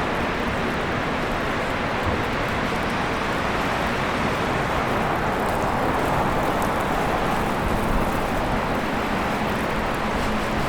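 Steady city traffic noise, with one vehicle growing louder as it passes about two-thirds of the way through.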